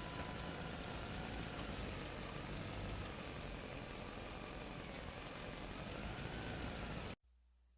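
A small motor running steadily and faintly, cutting off abruptly about seven seconds in.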